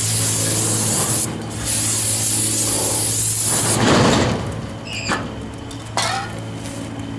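Aerosol spray can hissing in two long bursts, the second about twice as long as the first. Near the middle comes a short, louder rubbing noise.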